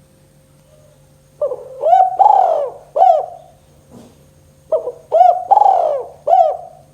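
Spotted dove (tekukur) cooing in the 'kuk 2' style. It gives two phrases of about four low coo notes each, the first starting about a second and a half in and the second about four and a half seconds in.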